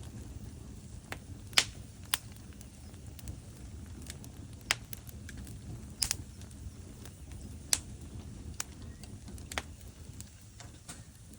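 Wood fire burning in a fireplace: a steady low rumble of the flames with irregular sharp crackles and pops from the logs, a handful of them standing out loudly.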